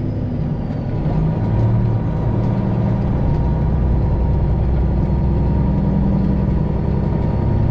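Semi truck's Detroit Diesel 12.7-litre engine running at low speed, heard from inside the cab; its pitch shifts in the first couple of seconds, then holds steady.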